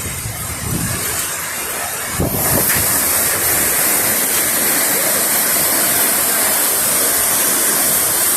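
Hurricane-force wind and driving rain, a steady rushing noise that grows louder and hissier about two seconds in.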